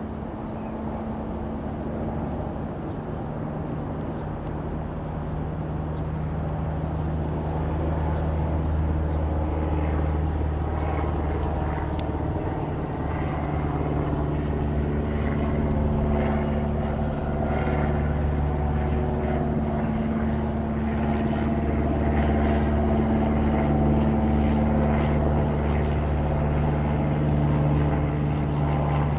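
Cessna 172 Skyhawk's four-cylinder piston engine and propeller droning overhead at a steady pitch, growing gradually louder as the light aircraft comes closer.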